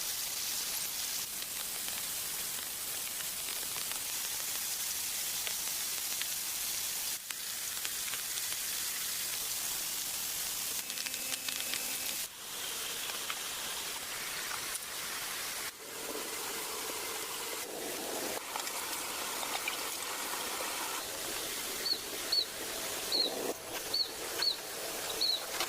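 A steady outdoor hiss, broken a few times by sudden brief dips. In the last few seconds, a run of short, high chirps repeats about once every half second.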